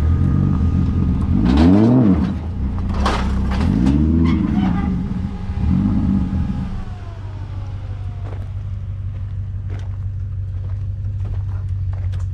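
Nissan Silvia S15 drift car's engine revved three times, each rev rising and falling back, then settling to a steady idle about seven seconds in, with a few light clicks over the idle.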